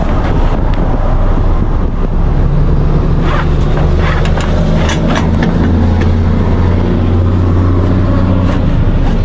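A vehicle engine running at a steady pitch: a low drone that sets in about two seconds in and fades shortly before the end, over a rumble, with scattered clicks and knocks.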